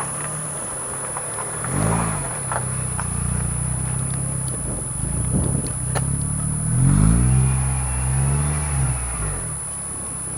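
Mitsubishi Lancer IX 2-litre four-cylinder engine through a straight-through sport exhaust, idling and revved by blips of the throttle. There is a short blip about two seconds in, then a longer rev about seven seconds in that is held for a couple of seconds before it falls back to idle.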